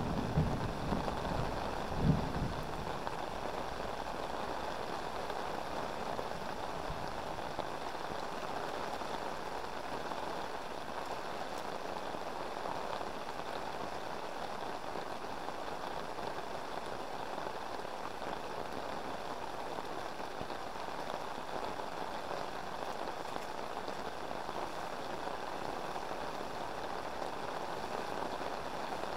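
Heavy rain falling steadily on a river. A few low thumps sound in the first couple of seconds, the loudest about two seconds in.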